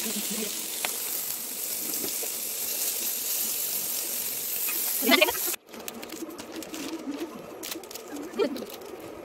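Meat pieces frying in hot oil in a pan, a steady sizzling hiss, with a brief pitched sound about five seconds in. The sizzle cuts off suddenly about five and a half seconds in, leaving a quieter stretch of faint ticks and clicks.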